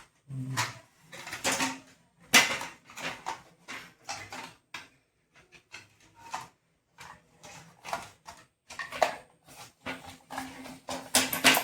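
Irregular sharp plastic clicks, knocks and rattles as a refrigerator's thermostat cover is handled and pressed onto its snap-lock clips.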